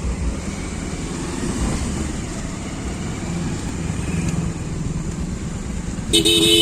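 Road traffic in a jam: a steady low rumble of vehicle engines. Near the end a vehicle horn starts blaring.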